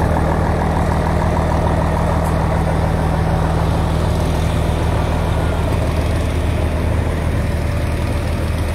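A large engine running steadily at idle, a constant low hum with no change in speed.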